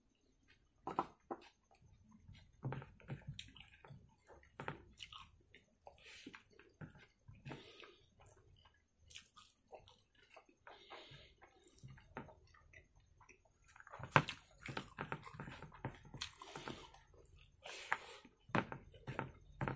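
Close-up mouth sounds of someone eating rice and meat by hand: irregular chewing and wet lip smacks, with the loudest smacks coming in the last third.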